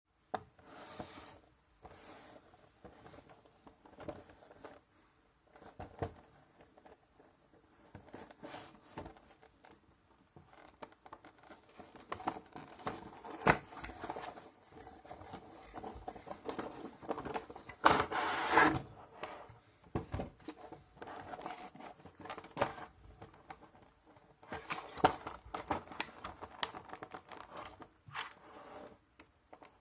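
Packaging of a boxed die-cast scale model being handled and opened: scattered clicks and taps with stretches of rustling, the loudest stretch about two-thirds of the way through.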